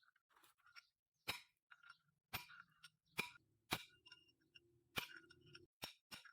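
About seven sharp, light metallic clinks at irregular intervals, as of tools or small engine parts being handled and set down, with a faint low hum through the middle.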